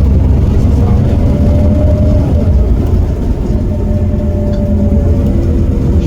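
Heuliez GX327 city bus's Iveco Cursor 8 six-cylinder diesel running under way, a loud, steady low rumble with a mid-pitched tone that rises and falls gently.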